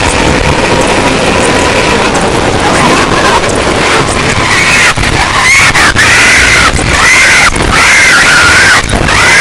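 Harsh electronic noise music: a dense, loud wall of distorted noise. From about halfway in, repeated wavering, arching squeals rise and fall, and the noise is broken by several sudden brief cutouts.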